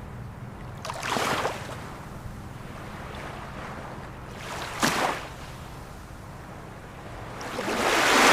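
Ocean waves breaking and washing in, three surges of surf: about a second in, midway, and the loudest near the end.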